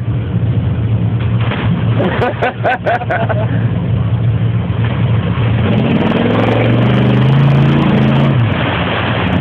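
Ford pickup truck's engine run hard at full throttle through a mud hole, its pitch climbing from about halfway through and dropping off near the end. A brief shout comes about two seconds in.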